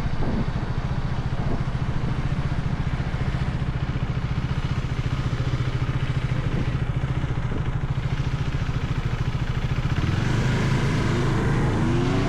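Motorcycle engine running at a steady speed, then rising in pitch as it revs up and accelerates near the end.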